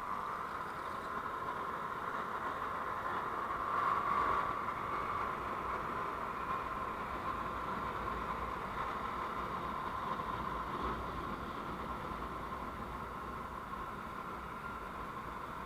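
Steady running noise of a vehicle on the road, a constant hum with low rumble that swells briefly about four seconds in.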